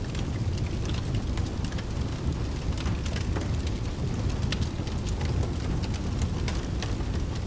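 Rain-and-fireplace ambience: steady rain over a constant low rumble, with scattered sharp crackles throughout.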